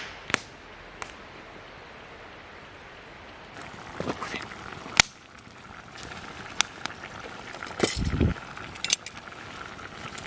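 Wood campfire crackling: a steady hiss with scattered sharp pops and snaps, the loudest about five seconds in, and a dull thump about eight seconds in.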